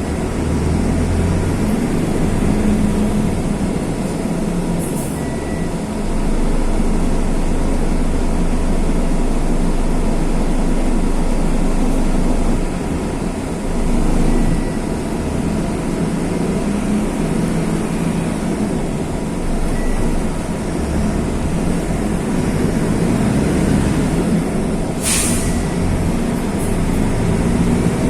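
Mercedes-Benz OF-1519 bus's OM-924 LA four-cylinder turbodiesel running on the move, its note and loudness rising and falling as it works through the manual gears. A short hiss about 25 seconds in.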